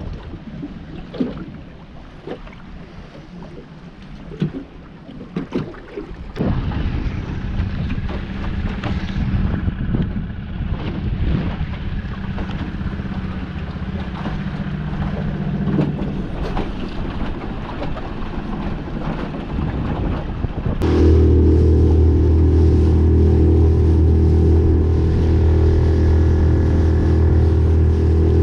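Boat on choppy water in wind: irregular knocks and slaps, then a boat motor running steadily from about six seconds in. About two-thirds of the way through, a much louder, steady sound cuts in abruptly.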